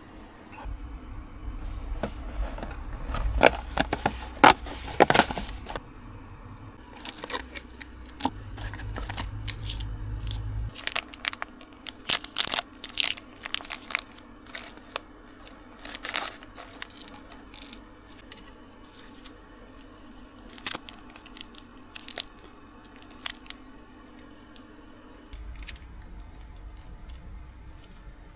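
Close-up handling noises: tearing, crinkling and scraping, with many sharp clicks, as of packaging being torn open and handled. Under them a low hum stops about eleven seconds in and comes back near the end.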